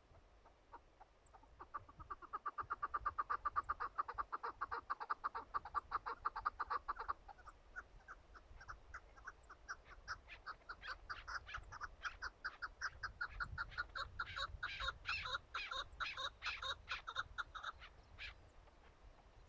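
Chukar partridges calling: long runs of rapid clucking notes, several a second, loudest in the first third. A busier series with higher notes comes in from about halfway and runs to near the end.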